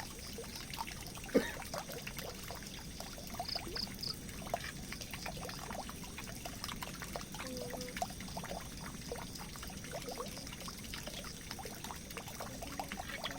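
Water pouring and trickling into a drain, a steady run of splashing with scattered small drips, and one sharp tap about a second and a half in.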